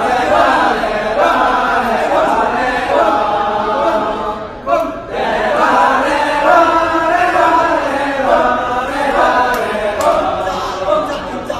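A Balinese kecak chorus of many voices chanting and singing without instruments, with a short break about four and a half seconds in.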